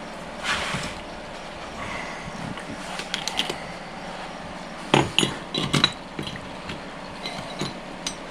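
Metal automatic-transmission parts clinking and knocking as they are handled and fitted together during a rebuild, with a cluster of sharper clanks about five to six seconds in.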